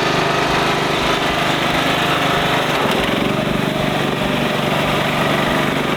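Riding lawnmower (mud mower) engine running steadily at a constant throttle.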